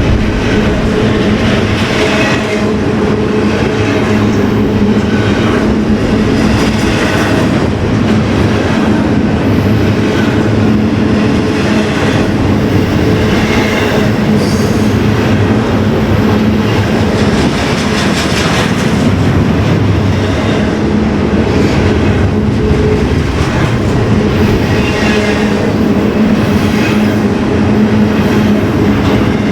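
A train rolling past close by: steady, loud rumble of wheels on rail with repeated clacks over the rail joints, and a brief high wheel squeal about halfway through.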